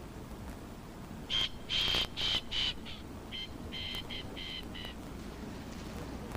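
A bird calling: a run of four short, loud, repeated notes, then a second, quieter run of five.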